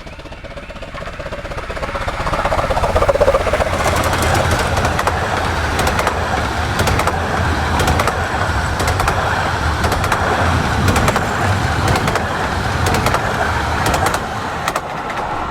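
Narrow-gauge steam train passing close by: its noise builds over the first few seconds, then holds steady with a long run of sharp clicks from the wheels on the track.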